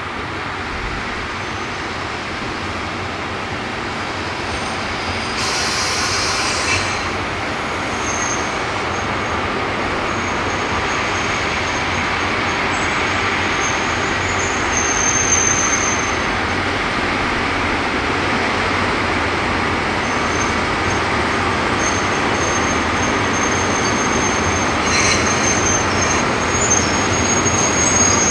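Locomotive-hauled passenger train, an ED79 electric locomotive with its coaches, rolling slowly in with a steady rumble that grows louder as it approaches. A thin high wheel squeal comes and goes, and there are two short hisses, about six seconds in and again near the end.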